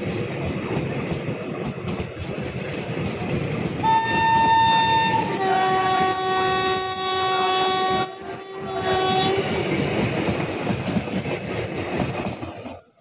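Passenger coaches of a train passing at speed, with a steady rolling and clatter of wheels on the rails. About four seconds in a train horn sounds: first a short single-note blast, then a longer blast of several notes together lasting about four seconds, with a brief break partway through. The sound cuts off abruptly near the end.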